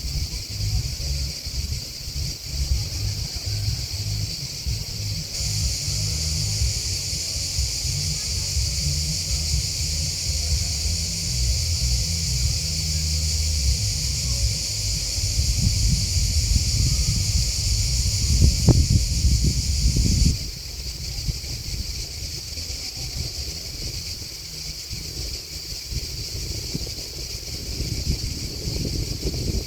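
Grasshoppers and crickets chirping in a steady high chorus, which grows louder about five seconds in and drops back suddenly about twenty seconds in. A low rumble runs underneath.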